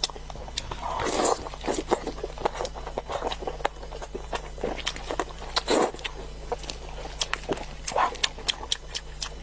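Close-miked eating of chicken: a run of quick wet clicks from chewing and lip-smacking, with a few louder bursts about a second in, near six seconds and at eight seconds.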